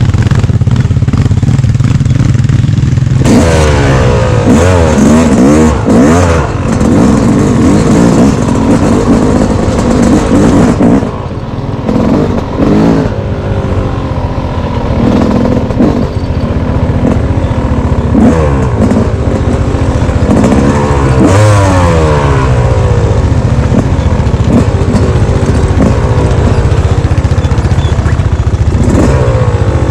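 Dirt bike engine under way on a trail, revving up and falling back again and again as the rider works the throttle, with a short easing off about a third of the way in.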